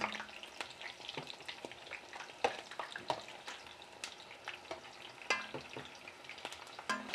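Onion and garlic frying in hot oil in an enamel pot: a steady sizzle full of small crackling pops, with one sharper pop about two and a half seconds in, as a silicone spatula stirs them.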